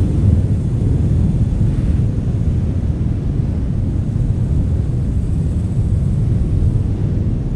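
Loud, steady low rumble of wind and road noise in a moving car.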